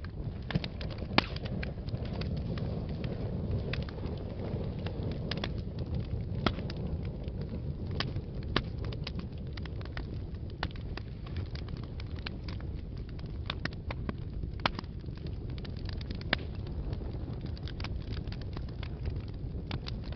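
Wood fire burning in a fireplace: a steady low rumble of flames with frequent crackles and several sharper pops.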